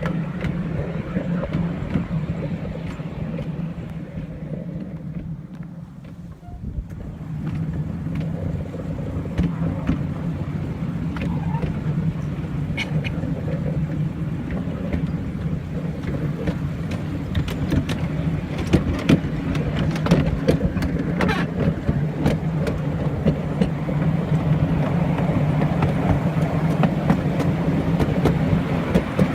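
A train running along the line, heard from the cab: a steady low drone that eases briefly about six seconds in. Irregular clicks and knocks become more frequent in the second half.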